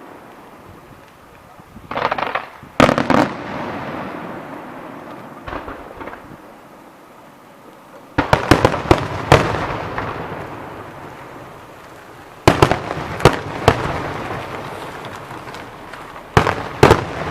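Aerial fireworks bursting in groups of sharp bangs a few seconds apart, each group trailing off in a long echo. The busiest string of bangs comes about eight seconds in.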